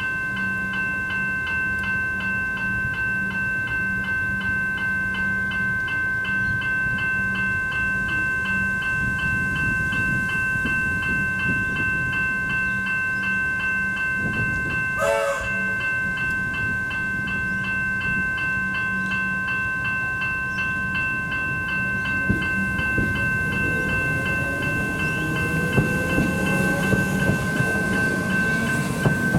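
Level-crossing warning bells (General Signals electronic e-bells) ringing steadily in a fast, even pulse. About halfway through a brief wavering tone sounds, and over the last several seconds an approaching train comes in, with a rising motor whine and wheels clacking over the rail joints.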